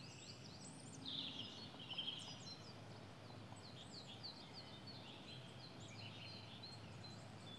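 Faint birdsong: several birds giving short, high chirps and quick down-sweeping notes, with a brief trill about a second in, over a faint low hiss of outdoor ambience.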